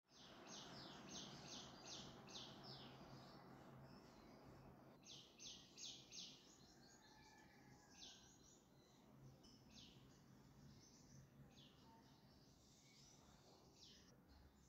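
Faint bird chirping: several bursts of quick, short, high chirps, each sliding downward, over a low steady hum and hiss.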